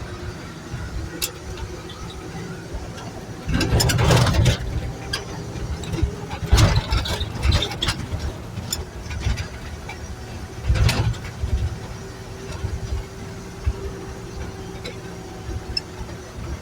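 1963 Chevy dump truck running at low speed, a steady low engine rumble, broken three times by loud bursts of rattling and clattering, the loudest about seven seconds in.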